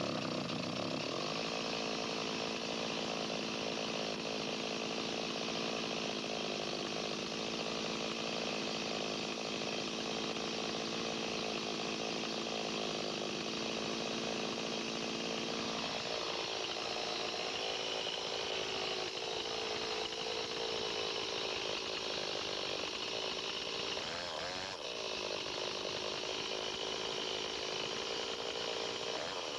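Two-stroke chainsaw running at high throttle while cutting a log, its carburettor turned lean. The engine note drops about halfway through, and there is a brief dip and rise near the end.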